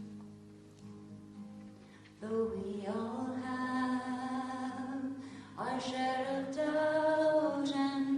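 An acoustic guitar chord rings out and fades, then a solo voice sings long, held notes in two phrases, the first beginning about two seconds in and the second a little past the middle.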